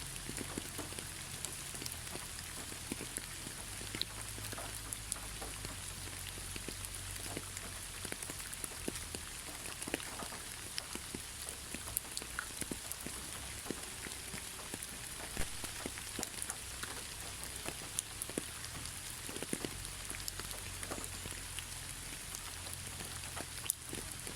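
Steady rain falling, an even hiss with many individual drops ticking and pattering on a surface.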